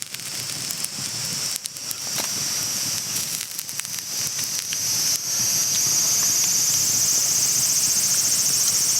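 Campfire crackling with scattered sharp pops. About five seconds in, a steady high-pitched insect trill starts and holds.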